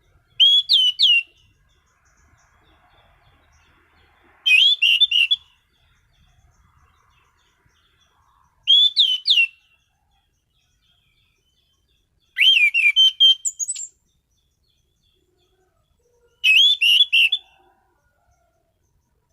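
Anis cendana (orange-banded thrush) singing vigorously: five loud, short phrases of swooping whistled notes, each about a second long, coming about every four seconds.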